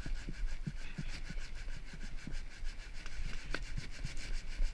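Coarse sandpaper rubbed by hand in quick back-and-forth strokes over a log's weathered surface, a steady rasping scrape.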